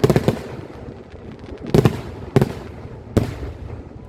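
Aerial firework shells bursting: a quick cluster of bangs at the start, then three more sharp bangs spaced under a second apart, each trailing off in a short echo.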